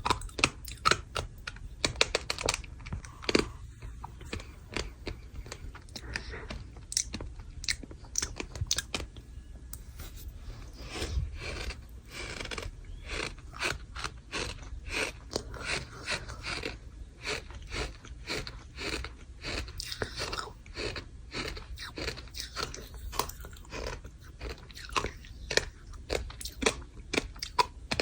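Crunchy sand chunks being crushed and crumbled: a dense, irregular run of crisp crackles and crunches.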